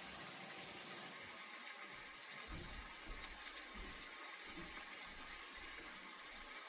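Steady rushing hiss of water, with a few soft low knocks.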